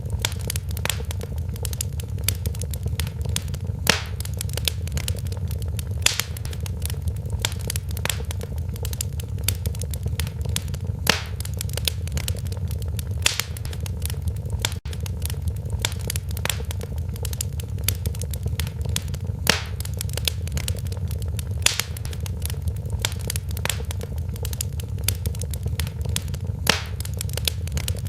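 Wood fire crackling in a fireplace: a steady low rumble of flames with constant small crackles and a louder pop every second or two.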